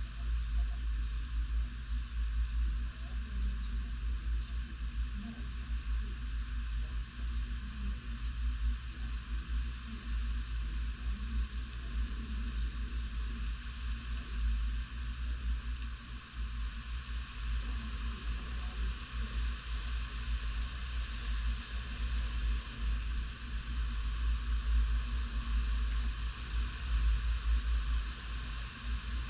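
Tropical-storm wind gusting, buffeting the microphone with an uneven low rumble over a steady hiss.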